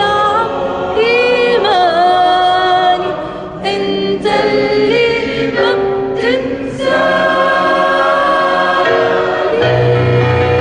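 Church choir with a female soloist singing an Arabic hymn, the voices wavering with vibrato through a few phrases before settling into a long held chord, a low note joining under it near the end.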